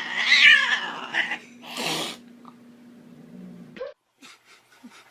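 A cat giving a loud, drawn-out yowl that rises and falls in pitch and ends about a second in, followed by a short hissing burst about two seconds in. The rest is quiet apart from a few light clicks.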